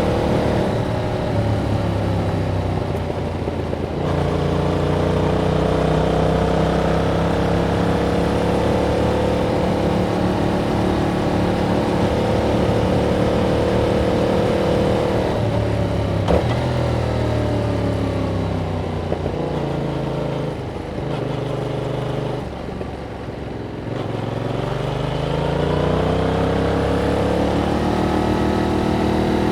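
Yamaha MT-07's parallel-twin engine through its stock exhaust, ridden on the road: it holds a steady pace, then the pitch falls in steps as it slows, dips lowest a little past the two-thirds mark, and rises again as it accelerates before settling near the end.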